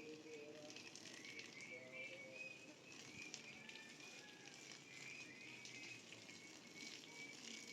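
Faint birds chirping, thin wavering high calls repeating again and again over a quiet outdoor background.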